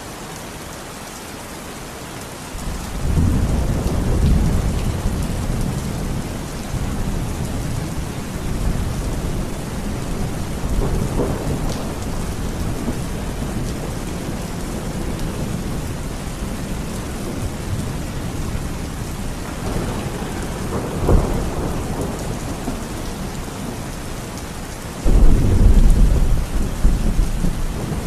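Steady rain falling with thunder: a low rumble rolls in about two and a half seconds in and fades slowly. There is a sharper crack a little after the two-thirds mark, then a sudden loud peal near the end.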